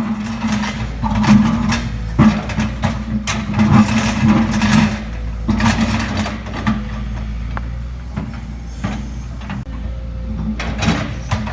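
Excavator engine running steadily under load, with repeated knocks and scrapes of the bucket against solid bedrock that it cannot break.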